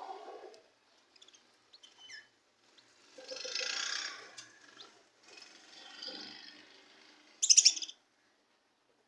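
Budgies chirping and chattering in short bouts, with a louder, sharp burst of calls near the end.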